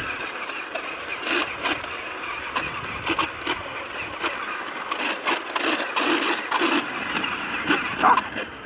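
A tractor running, with frequent short rattles and clicks over a steady hum.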